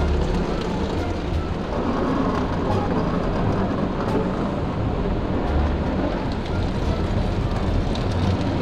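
Automatic car wash running over a car, water spraying and drumming on the body in a steady rushing noise.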